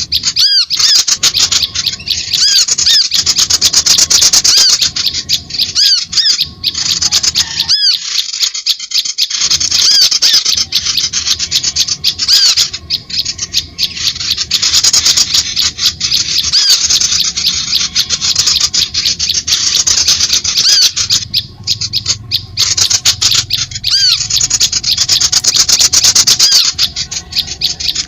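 Bird-lure recording of birds calling without pause: a loud, rapid, high-pitched rattling chatter with repeated squeaky notes, broken briefly about eight seconds in.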